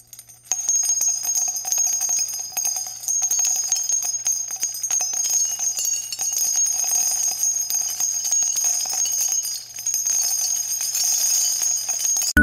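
Jingle bells shaken steadily, a dense high jingling that starts about half a second in and cuts off suddenly at the end.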